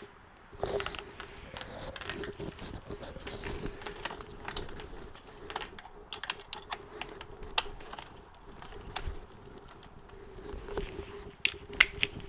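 Ratchet wrench clicking in short irregular runs as small engine bolts are run down, with light metal tool clicks, over a faint steady hum. A couple of sharper clicks come near the end.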